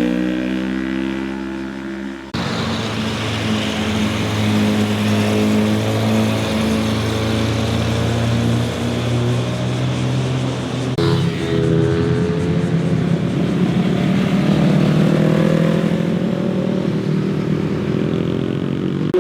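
Motorcycle engines revving as they pass one after another, pitch rising and falling through the gears. The sound changes abruptly about two seconds in and again about eleven seconds in, where one pass gives way to the next.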